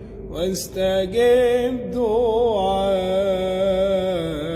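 A solo voice sings an Arabic Christian hymn, drawing out the sung word 'واستجب' ('and answer') in long held notes with a wavering vibrato. A steady, unchanging lower tone sounds beneath the voice.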